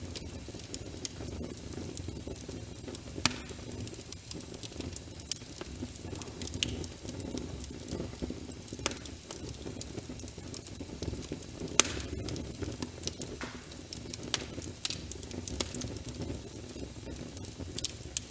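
Wood fire crackling in a fireplace, with irregular sharp pops and snaps; the loudest pops come about three seconds in and near twelve seconds. A steady low rushing noise runs underneath.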